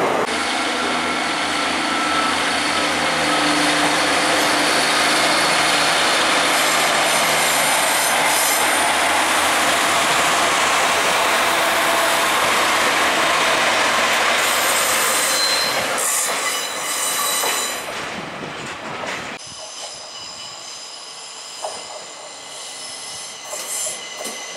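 A diesel multiple unit runs past close by, with a steady engine drone, rail and wheel noise and thin wheel squeal, for about sixteen seconds, then fades. After a cut, a Class 333 electric multiple unit pulls in more quietly.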